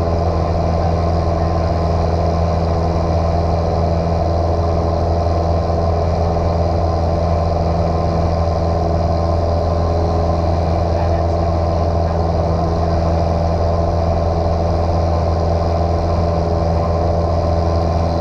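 Small piston airplane's engine and propeller droning steadily at constant power, with a deep, even hum.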